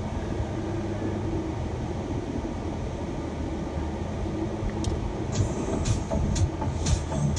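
Steady low rumble of road and engine noise inside a moving shuttle van's cabin. Near the end, sharp clicks start coming about twice a second.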